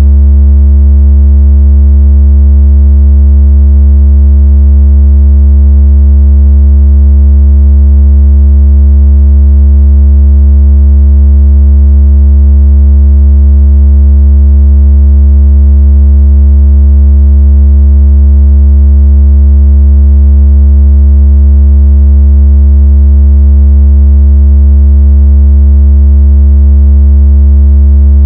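Synthesized deep bass tone of the kind sold as a 'water out of speaker' or phone-vibration sound: one very loud, unbroken low hum with a buzzy edge of overtones, holding steady without any change.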